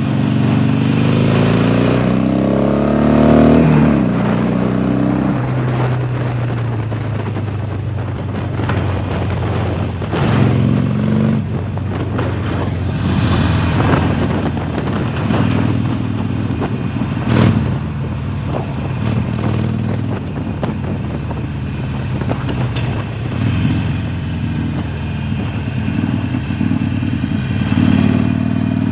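Harley-Davidson Sportster Forty-Eight's 1200 cc V-twin running through a Jekill & Hyde valved exhaust under way. The revs climb for a few seconds, drop at a gearshift, and then settle to a steadier run with a few short rises in revs. There is one sharp click about two-thirds of the way through.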